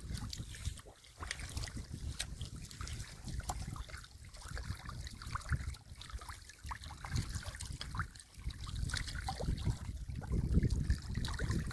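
Shallow muddy water sloshing and splashing irregularly, with many small splashes and drips.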